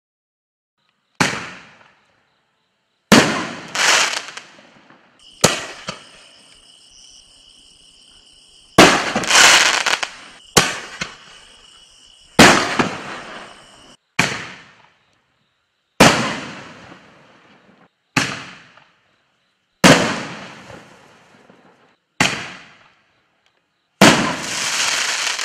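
Aerial shells from a Bright Star Super Nova six-shell firework kit being fired one after another: about a dozen sharp bangs, one to two seconds apart, each dying away over a second or so.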